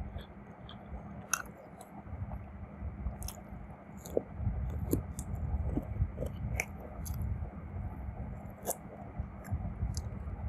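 Close-up chewing and biting of food, a steady chewing with short sharp crisp crackles scattered throughout.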